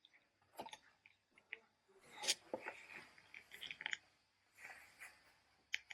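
Irregular small clicks and rustles, with one louder crackle about two seconds in.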